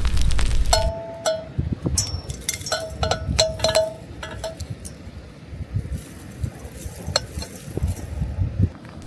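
Camp dishes or utensils clinking together: a quick run of small ringing clinks in the first half, then a few scattered clicks. A loud low rumble fills the first second and cuts off suddenly.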